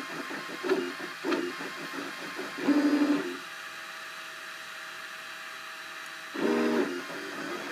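Cubify 3D printer's stepper motors driving the print head during a print: a run of short uneven pulses, then a pitched whine nearly three seconds in and another near the end, with a steady hum of tones between.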